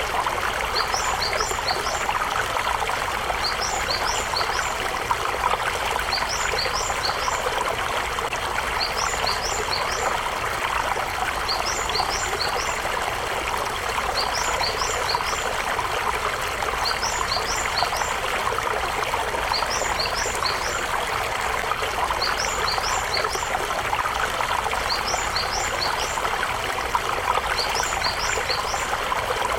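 Shallow river water murmuring steadily over stones, with a small bird repeating a short, high phrase of a few quick notes about every two and a half to three seconds.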